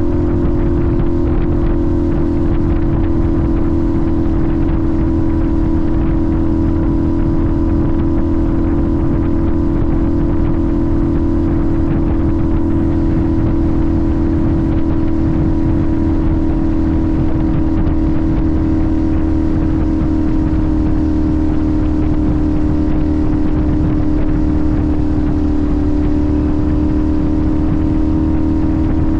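Sportbike engine held at a steady cruise, a constant drone whose pitch dips slightly about 25 seconds in.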